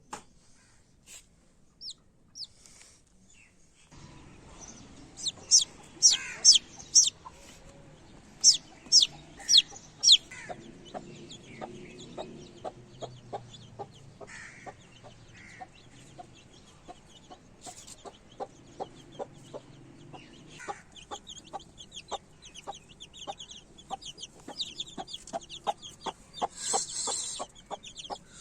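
Chicks peeping in high, falling cheeps, loudest in a run of peeps about five to ten seconds in. From about ten seconds in an adult chicken clucks steadily, about twice a second, while the chicks keep cheeping.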